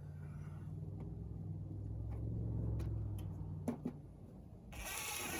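Low engine hum of a motor vehicle that swells and then dies away, with a couple of sharp clicks, followed near the end by a sudden loud rush of noise.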